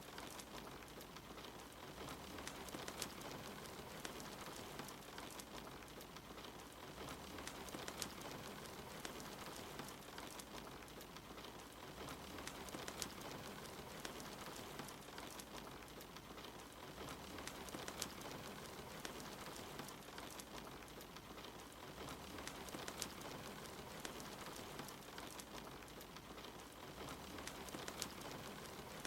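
Steady soft rain with the crackle of a wood fire, a sharp pop every second or so.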